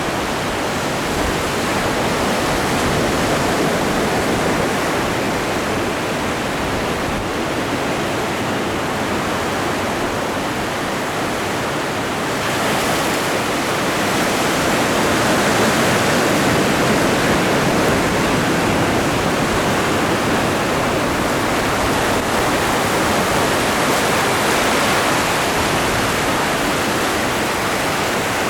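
Atlantic ocean waves washing onto the shore in a steady rush, swelling and easing slowly, loudest around the middle.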